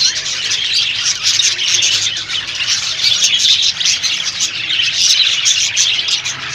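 A flock of lovebirds chattering: a dense, unbroken mass of quick, high-pitched chirps from many birds at once.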